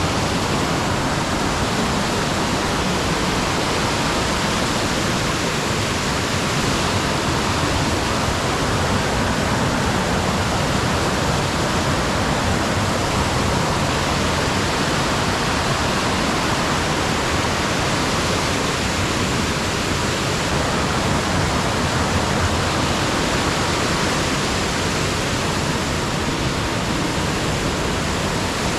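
Loud, steady rushing of water with no breaks or distinct drops.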